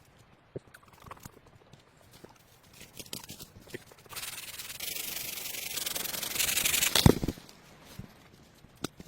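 Light knocks and clicks, then about three seconds of steady scraping or rubbing that grows louder and ends in one heavy thump; a few softer knocks follow.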